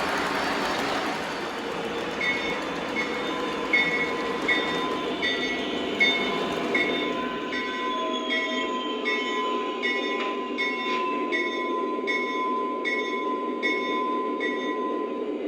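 Lionel SD40T-2 model diesel locomotive running, its onboard sound system playing a steady diesel engine sound with a short ding that repeats about every three-quarters of a second from about two seconds in.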